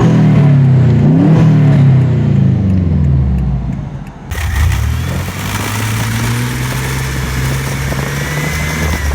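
Car engine revved up and down a few times, then, after a cut about four seconds in, an engine running steadily.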